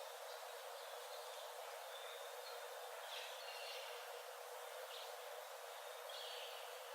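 Faint bird calls, several short high chirps and brief trills a second or so apart, over a steady hiss of forest background.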